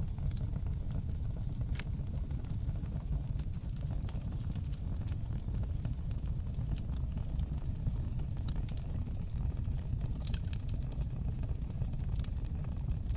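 Wood fire crackling in a fireplace: scattered sharp pops and snaps over a steady low rumble of flames, with a quick run of pops about ten seconds in.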